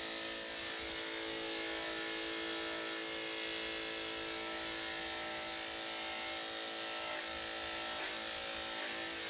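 Electric dog grooming clippers fitted with a #7 blade, running steadily with an even hum.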